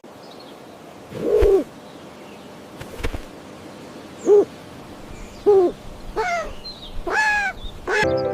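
Owl hooting: about six short calls spaced a second or so apart, the first few low and plain, the last ones higher-pitched and fuller.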